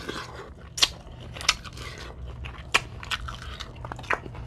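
Close-miked chewing of Dungeness crab in sauce: soft mouth sounds broken by sharp wet clicks and crunches about once a second.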